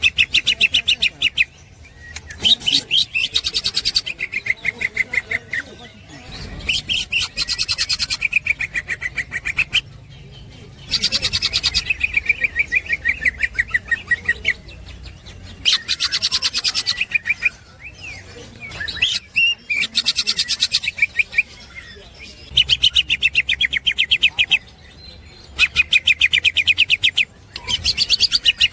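Green leafbird (cucak ijo) singing its rapid chattering 'ngekek' song: bouts of fast, rattling high notes one to three seconds long, repeated about nine times with short pauses between them.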